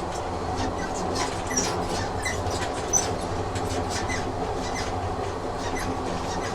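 Recorded train sound effect of a train running along the rails: a steady low rumble with irregular clicks and knocks from the track, and a few brief squeaks.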